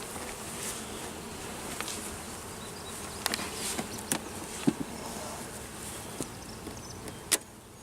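Honey bee colony buzzing steadily around an open hive, with a few short clicks and knocks, the loudest near the end.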